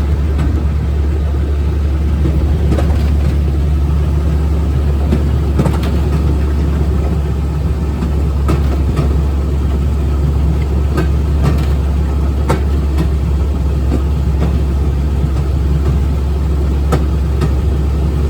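Railroad speeder (track motor car) travelling downhill: a steady low drone of its engine and running gear on the rails, with scattered sharp clicks throughout.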